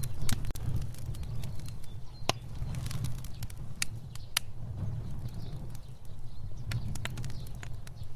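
Fire burning: a steady low rumble of flames with irregular sharp crackles and pops scattered through, the strongest a little over two seconds in and around four seconds in.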